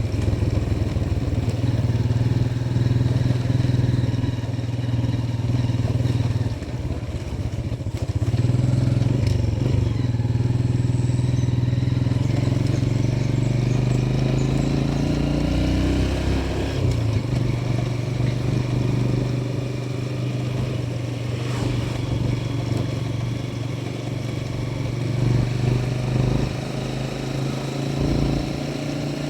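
Motorcycle engine running steadily while being ridden along the road; its note rises a little, then drops suddenly about halfway through and settles again.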